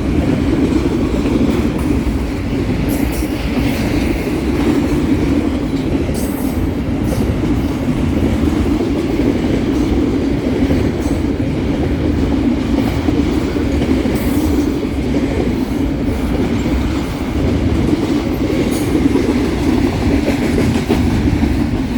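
Double-stack container freight train passing close by: a steady rumble of steel wheels on rail with repeated clacking. The railfan puts the clacking down to shelling, tread damage on the wheels.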